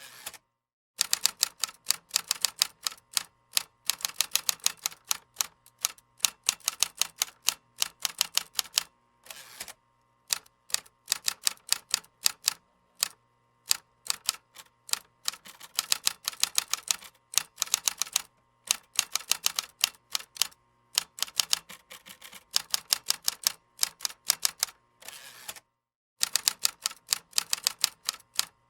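Computer keyboard typing: rapid runs of key clicks, several a second, broken by short pauses.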